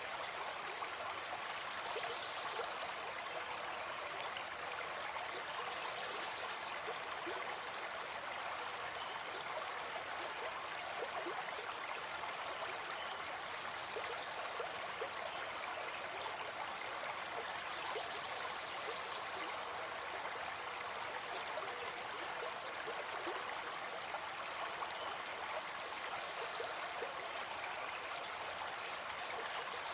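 Gentle forest stream flowing steadily over rocks, an even rushing and babbling of water.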